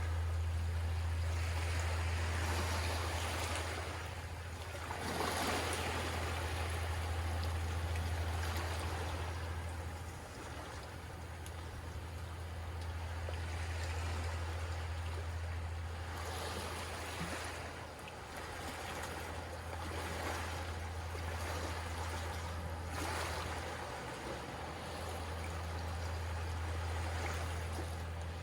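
Gentle sea waves washing ashore, the wash swelling and fading several times. A steady low hum runs underneath.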